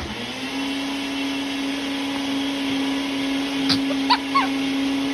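An electric appliance motor switches on suddenly and runs at a steady pitch, a loud hum with a hiss over it. Two short high chirps come about four seconds in.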